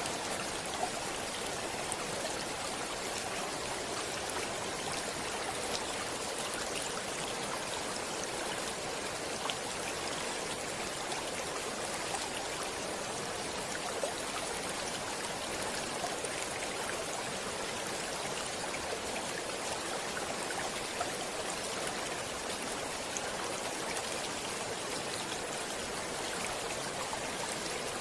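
Running water flowing steadily: a constant rushing hiss with faint, scattered small splashes.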